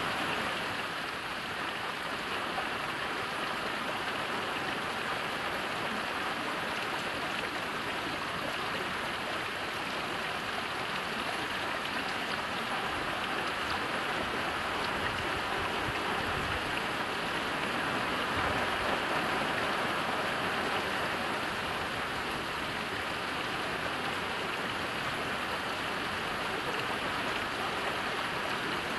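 Heavy rain falling steadily, a dense, even hiss of drops with no pauses.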